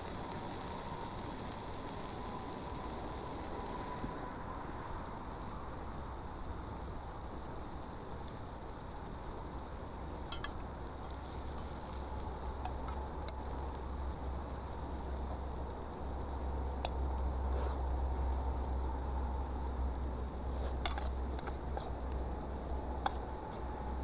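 Steak sizzling on a hot iron griddle plate, a steady high hiss that eases down about four seconds in, with a few sharp clinks of cutlery or metal on the plate scattered through it.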